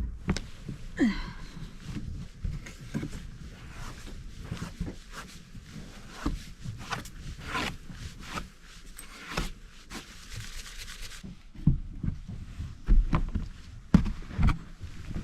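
Snow being pushed and scraped off a boat and its canvas top by hand: irregular rubs, scrapes and crunches.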